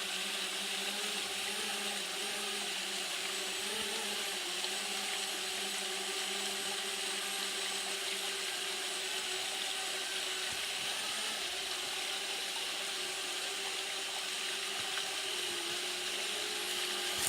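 Small quadcopter drone (DJI Spark) hovering, its propellers giving a steady whirring hum that shifts slightly in pitch now and then, over a steady rushing hiss.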